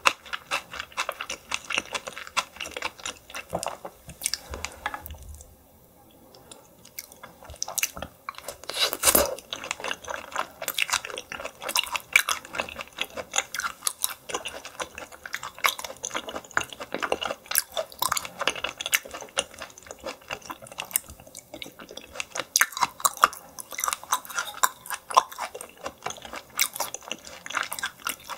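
Close-miked chewing of yellow stingray: dense, wet, clicky mouth sounds with a brief lull about six seconds in.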